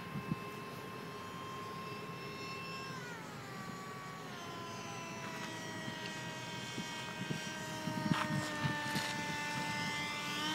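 Electric ducted fan of an RC F-35 model jet whining steadily, then dropping in pitch about 3 s in as the throttle is eased back, and holding the lower pitch with a slight rise near the end.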